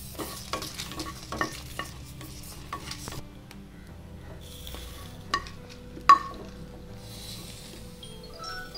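Wooden spatula stirring and tapping dry red chillies around a hot metal pan while they dry-roast: a run of scrapes, clicks and knocks, the loudest about six seconds in.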